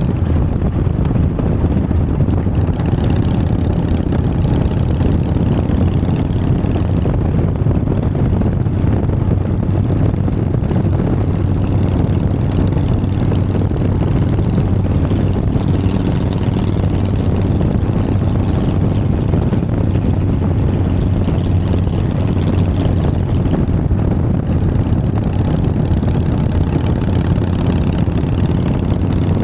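Harley-Davidson Sportster's V-twin engine running steadily, a constant low engine note with no change in pitch.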